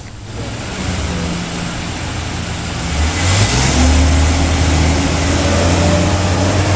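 Propane-fuelled Ford engine of a Blue Bird Vision school bus running. About three seconds in it gets louder with a deeper low note, then holds a steady idle.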